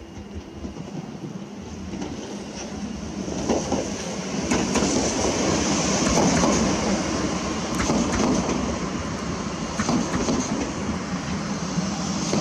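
A Koleje Dolnośląskie passenger multiple-unit train passing close by: a rumble of wheels on rail with a steady hiss and scattered clicks over the rail joints. It builds over the first few seconds and is loudest about six seconds in.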